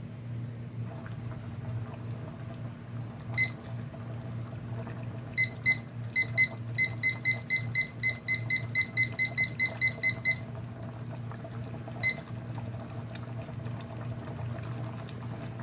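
Short electronic beeps from a kitchen appliance's button panel. There is a single beep, then a pair, then a quick run of about four beeps a second for some three and a half seconds, and one last beep near the end. A steady low hum runs underneath.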